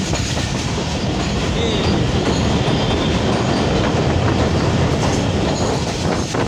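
Passenger train running along the track at speed: a steady, loud rumble of wheels on the rails with a clatter of clickety-clack.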